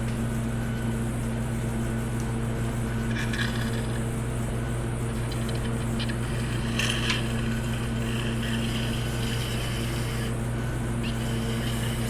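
Steady low machine hum filling the workshop, with a few faint light clicks about three seconds in and again near the middle, typical of metal engine parts being handled during an engine teardown.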